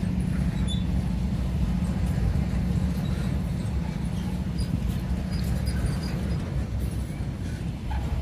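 Freight train boxcars rolling past close by: a steady low rumble of wheels on rail, with scattered light clicks.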